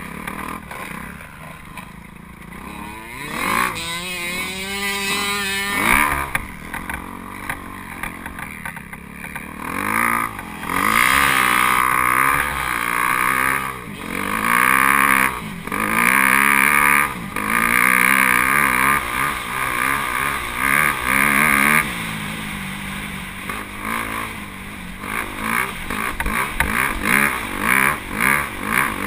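Dirt bike engine revving hard over and over, its pitch climbing and falling with the throttle. Near the end come quick short throttle blips.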